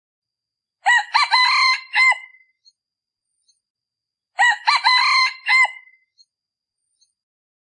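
Male decoy junglefowl cock crowing twice, each a short crow of about a second and a half, the call used to lure wild junglefowl cocks.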